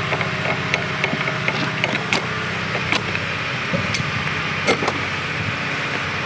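An engine running steadily at idle, with scattered clicks and knocks over it.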